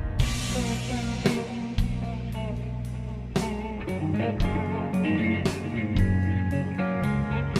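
Slowed-down blues recording: electric guitar lines over bass and drum kit, with a cymbal crash right at the start.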